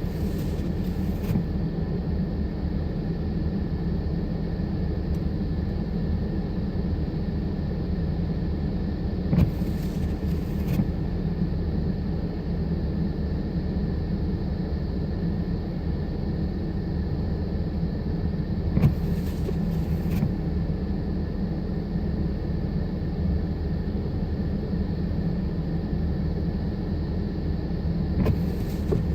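Steady low vehicle rumble. About every nine and a half seconds there is a brief two-part swish, three times in all.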